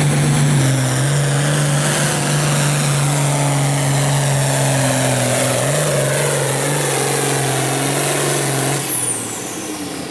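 Farm pulling tractor's engine at full throttle, dragging a weight-transfer sled with a loud, steady note that steps in pitch a couple of times. The engine backs off about nine seconds in. The run is over the 18 mph class limit, which earns a speed ticket.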